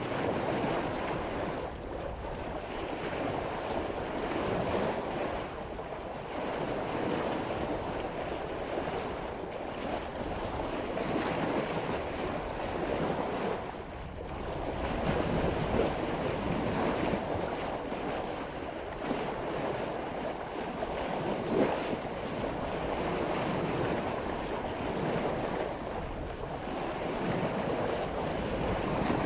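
Seawater rushing and splashing along the bow of a sailboat cutting through ocean waves at about 5 knots, swelling and easing every few seconds, with wind on the microphone.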